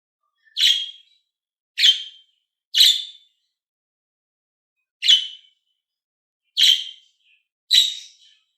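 Budgerigar giving six short, sharp calls, in two groups of three with a pause of about two seconds between the groups.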